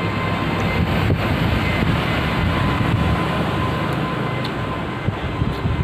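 Steady low rumbling noise with a faint steady hum above it.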